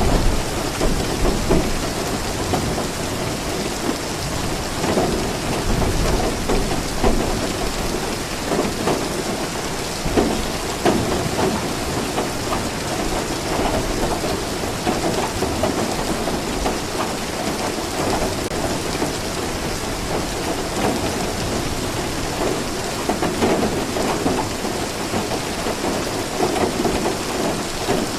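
Steady heavy rain falling, with a low rumble of thunder near the start.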